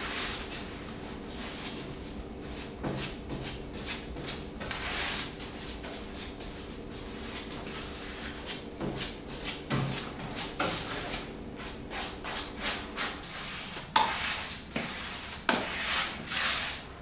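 Repeated rubbing and scraping strokes, like hand work on wood, over a steady low hum that stops about three-quarters of the way through. A sharp knock comes shortly after the hum stops, and a few louder strokes follow near the end.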